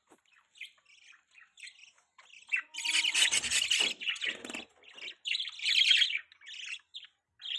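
Baby budgie chirping: faint short chirps at first, then a loud run of rapid, harsh chirps about two and a half seconds in, and another burst a little past the middle.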